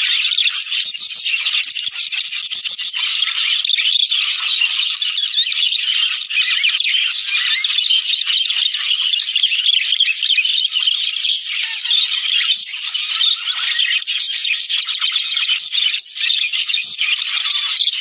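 A flock of budgerigars chattering and warbling without a break: a dense stream of rapid, high chirps and clicks. This is the breeding chatter played to encourage budgies to mate.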